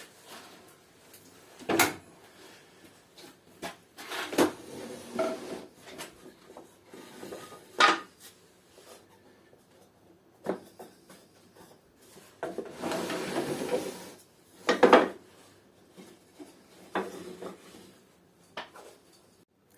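Scattered knocks, clicks and clatter of hard objects being handled and set down, with a longer scraping, rustling stretch past the middle.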